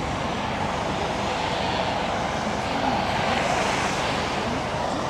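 Steady rushing outdoor ambience of a crowded beach, with faint distant voices mixed in.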